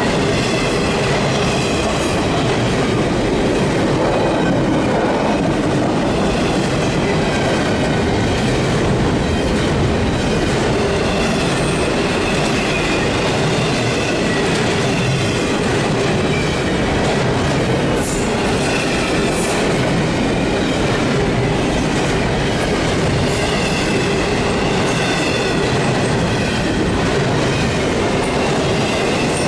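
Railroad cars rolling past close by: a steady, loud rumble of steel wheels on rail, with faint high wavering squeals from the wheels.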